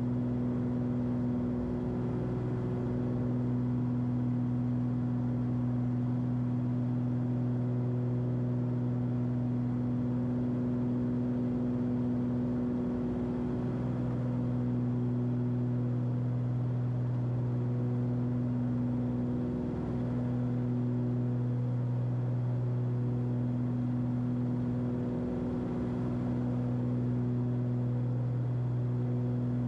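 Twin turbocharged Continental six-cylinder engines and propellers of a Cessna 340 running at climb power, heard as a steady, even hum from the cockpit. The hum wavers briefly a few times.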